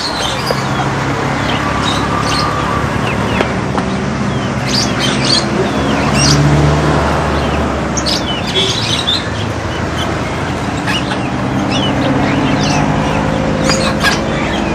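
Many small birds chirping and calling in quick, short notes, over a steady low hum.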